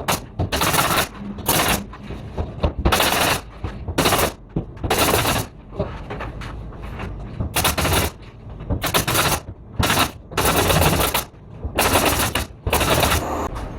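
Pneumatic staple gun (air tacker) firing in rapid strings, about eleven bursts of quick shots at irregular intervals, as drywall or framing is fastened.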